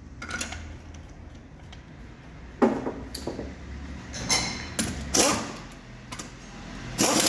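Metal clanks and knocks of tools and car parts being worked on, a few sharp hits irregularly spaced over a faint low hum.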